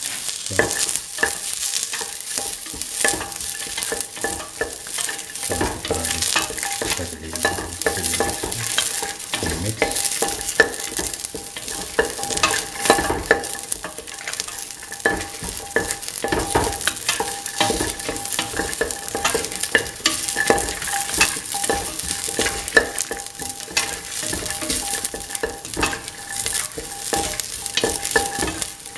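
Shallots, garlic and a dried red chilli sizzling in oil in a steel pan, with a utensil scraping and clicking against the pan as they are stirred.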